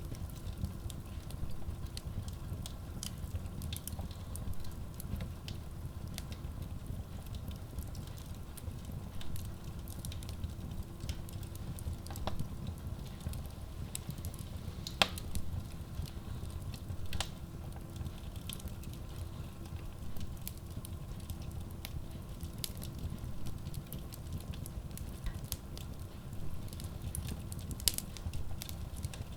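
Wood logs burning in a Kratki Koza K6 stove-fireplace: a steady low rumble of the flames with scattered crackles and snaps, one sharper pop about halfway.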